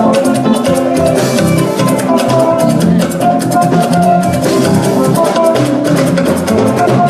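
Band dance music with a drum kit, hand percussion and guitar keeping a steady beat.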